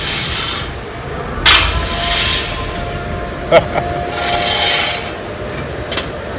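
Harsh rasping scrapes, each lasting about a second and coming every two to three seconds, with a sharp knock about three and a half seconds in and a faint steady hum underneath.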